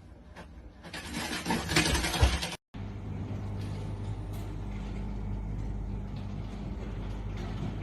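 A loud rushing noise builds for about a second and a half and then cuts off abruptly. It is followed by a steady low mechanical hum, like a running engine.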